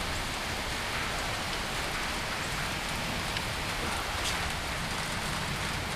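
Heavy rain pouring down steadily, with a few faint drop ticks, some of them likely striking the camera.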